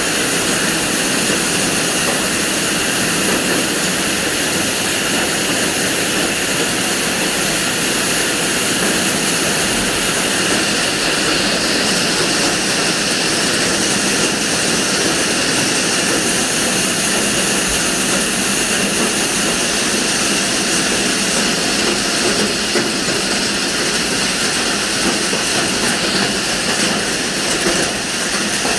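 Heavy hail coming down in a dense, steady roar of countless impacts, with some hailstones about golf-ball size.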